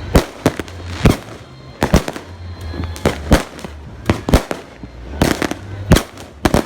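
Fireworks going off one after another: a rapid, irregular series of sharp bangs, some in quick clusters, over a low rumble.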